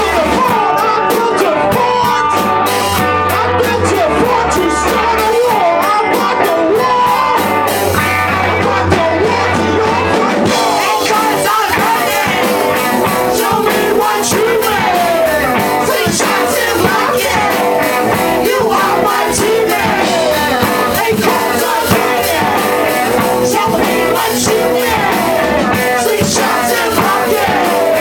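Live rock band playing, with electric guitar and singing over a steady beat. About ten seconds in the sound fills out and stays full to the end.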